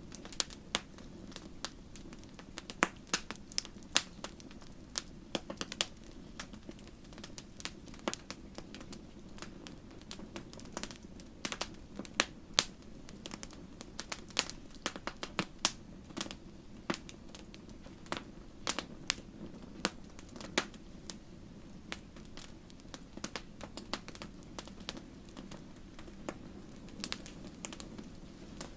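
Wood campfire crackling: irregular sharp pops and snaps from the burning wood, over a steady low rumble of the flames.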